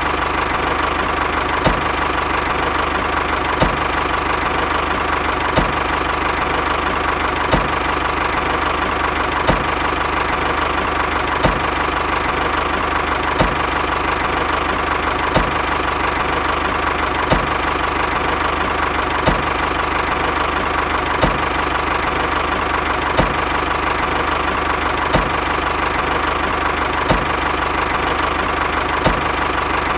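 Small electric motor running steadily with a high whine, and a sharp click about every two seconds.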